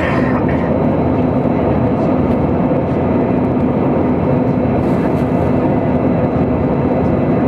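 Steady engine and airflow noise heard inside an airplane cabin in flight, a dense even rush with a constant low hum.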